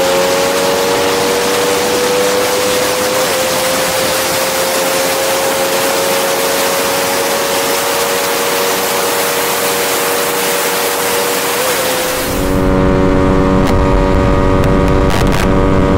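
Honda RS150's single-cylinder engine held at high revs under full throttle, its pitch creeping slowly upward, with heavy wind noise over the microphone. About three-quarters of the way through, the wind hiss drops away suddenly and the engine note is heard clearly, still at high revs.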